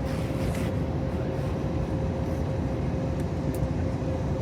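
Steady cabin noise inside an Airbus A321neo airliner: a low rumble of engines and airflow with a constant mid-pitched tone running through it.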